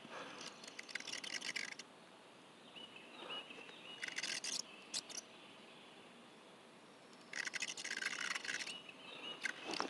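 Fishing reel cranked in short bursts of rapid clicking, two longer bursts of about a second and a half and a few brief ones, with pauses between them as the lure is popped and retrieved.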